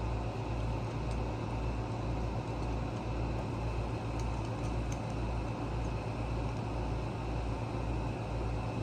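Steady machine hum with a deep low throb pulsing about twice a second, with a few faint ticks.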